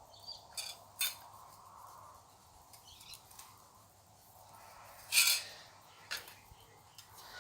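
A thin stainless steel sheet being handled and marked out: a few light metallic clicks and taps, with one brief louder scrape about five seconds in.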